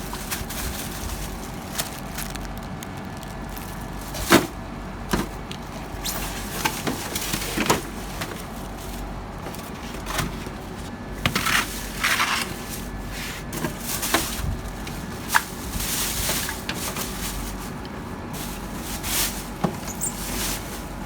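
Irregular knocks and clicks with short bursts of rustling or scraping, from parts and tools being handled during an air conditioner installation, over a steady low hum.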